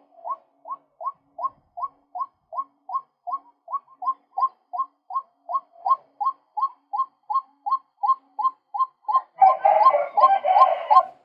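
Male white-breasted waterhen calling a long, even run of short 'kwak' notes, a little under three a second. About nine seconds in, the calls turn louder and rougher, with notes crowding over one another.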